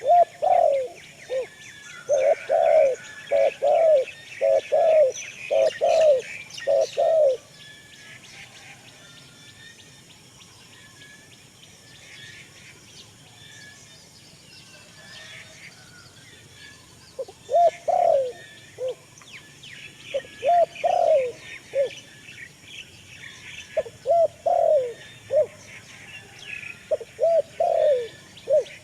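Birds calling: a short, low, arching call repeated in quick runs, pausing for about ten seconds midway, over steady high-pitched chirping from smaller birds.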